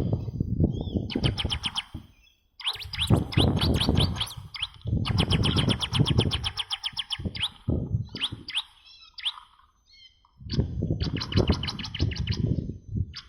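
Bar-winged prinia (ciblek batik) song used as a trapping lure. It comes in phrases of quick, rapidly repeated high chirping notes, several times with short breaks between, over a heavy low rumble. The song is weaker in a stretch past the middle.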